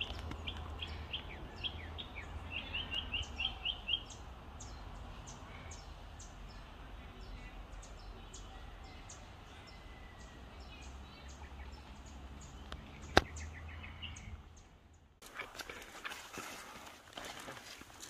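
Wild birds chirping, with a quick run of repeated chirps in the first four seconds and faint high ticks continuing over a low rumble. A single sharp click stands out about thirteen seconds in, and the background changes abruptly about fifteen seconds in.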